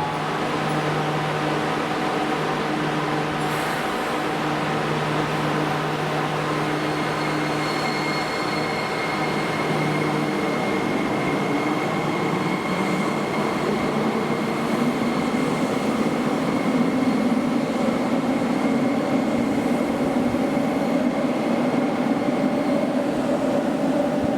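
Toei subway train running at a station platform: a continuous mechanical hum with several steady tones. A higher whine comes in about eight seconds in, and the sound grows louder and rougher in the second half.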